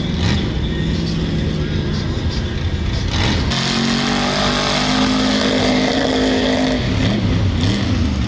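Mud truck's engine running under load, revving up hard about three and a half seconds in, held high for a few seconds, then dropping back near the end.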